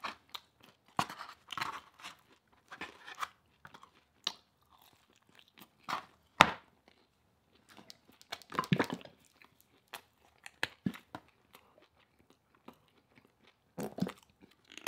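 Close-miked chewing of pizza and sweet potato fries: irregular crunching bites and chewing with short pauses, with the sharpest crunch about six and a half seconds in.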